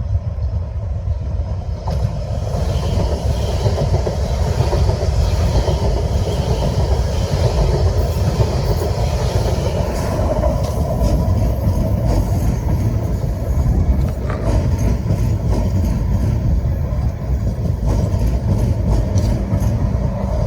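A passing train: a steady heavy rumble that builds about two seconds in, with scattered short clicks of the wheels over the rail joints.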